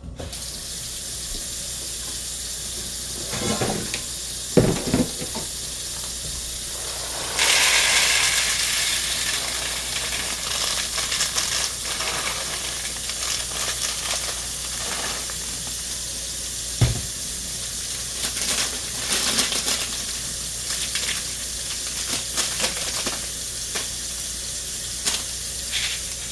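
Kitchen tap water running steadily over dried black-eyed peas as they are rinsed, with a few knocks around four to five seconds in. About seven seconds in, the flow gets louder and brighter.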